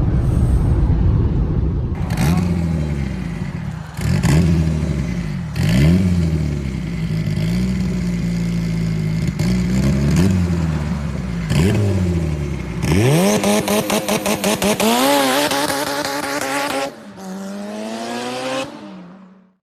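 Car engine revved hard again and again, its pitch climbing and dropping with each blip, with a sharp crack at the top of several revs. Later comes a long high-pitched rev with a harsh rasping crackle over it, then a quieter stretch of revving that cuts off just before the end.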